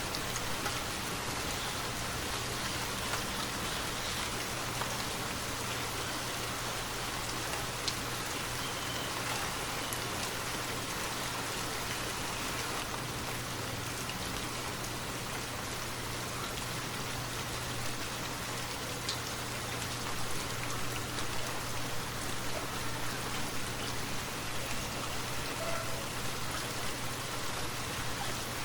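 Steady, continuous rainfall with a few separate drop ticks standing out; it gets slightly more uneven later on.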